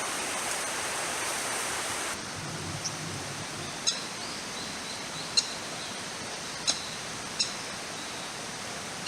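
Steady rush of running water, which changes to a quieter, lower hiss about two seconds in; over it come five short, sharp, high bird calls spread across the rest, the third the loudest.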